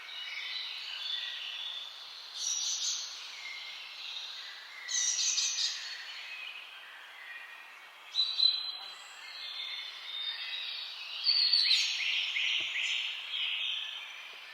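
Several birds singing and calling together in a steady high chatter, with louder song phrases every few seconds, some of them quick trills of repeated notes.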